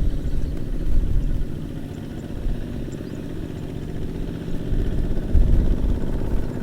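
Kubota mini tractor's diesel engine running with a fast, even chug. It eases off a little in the middle and grows louder again near the end.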